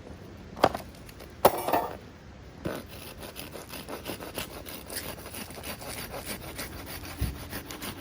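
Firewood being cut by hand: a few separate knocks on the wood, then about three seconds in, quick, even rasping strokes that keep going.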